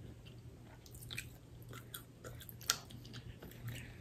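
Faint chewing with small crackles and clicks as fried chicken is eaten and picked apart by hand, one sharper click about two and a half seconds in, over a faint low hum.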